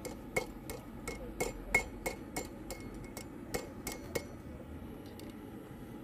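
Blacksmith's hammer striking steel on an anvil: about a dozen fairly light blows at roughly three a second, each with a short metallic ring, stopping about four seconds in. The blows are bending a forged coat hook into shape without a vise.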